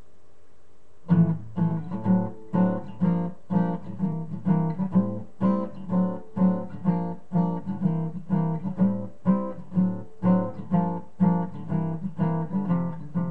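Acoustic guitar strummed in a steady rhythm, about two strums a second, starting about a second in after faint room hiss: an instrumental intro with no singing yet.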